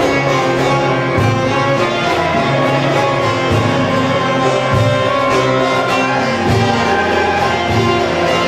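Turkish folk music ensemble playing an instrumental passage, with string instruments over a steady percussion beat.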